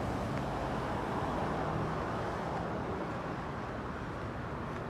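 A car driving along a road: steady engine and tyre noise, getting slightly quieter toward the end.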